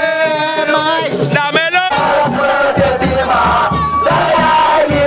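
A sung devotional chant that changes abruptly about two seconds in to a crowd chanting and shouting over music with a low, pounding beat.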